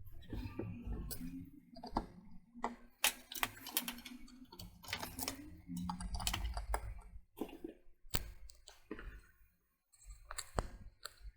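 Irregular sharp clicks, snaps and light knocks of parts being fitted onto a computer motherboard: the memory, cooler and system speaker going on, with handling noise between them.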